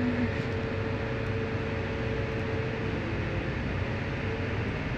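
Cabin noise inside a moving double-decker bus: a steady low engine and road rumble with hiss. Over it runs a faint steady whine that fades out about three seconds in.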